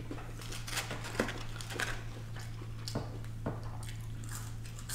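A person chewing and biting fried fast food close to the microphone, with scattered soft crunches and wet mouth clicks. She bites into a french fry near the end. A steady low hum runs underneath.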